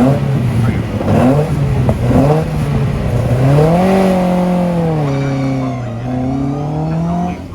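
Rally car engine accelerating hard, its pitch climbing and falling as it works up through the gears, with a long climb in the second half that cuts off sharply near the end.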